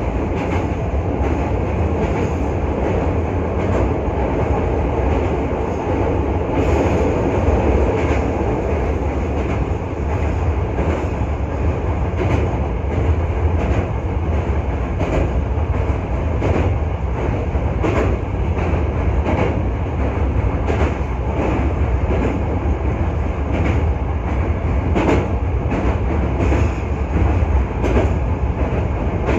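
Hankyu 1300 series electric train running along the track, heard from on board: a steady low rumble of wheels on rail, broken by frequent sharp clicks as the wheels pass over rail joints.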